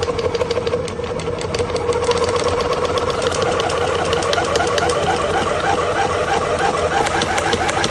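Rapid, regular mechanical clattering over a steady hum, starting abruptly.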